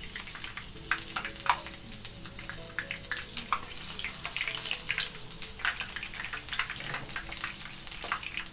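Batter-coated shrimp frying in hot oil in a skillet: a steady sizzle with many sharp, irregular crackles and pops.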